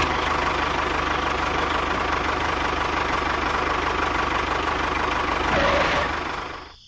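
An engine idling steadily with a fast, even firing rhythm, fading out near the end.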